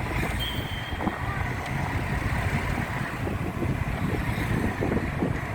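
Cabin noise of a moving car: a steady low rumble of engine and road, with scattered light knocks and rattles.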